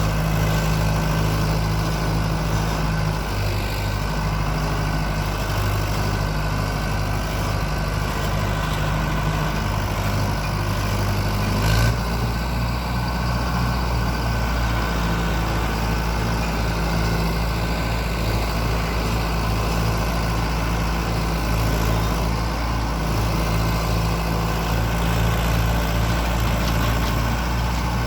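Mahindra Arjun 555 DI tractor's diesel engine running steadily at a low, even speed. A single sharp click or knock comes a little before the middle, after which the engine note changes slightly.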